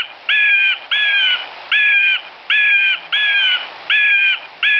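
A bird's harsh call, the one given for an eagle, repeated evenly about three times every two seconds; each call is short and dips slightly in pitch at its end.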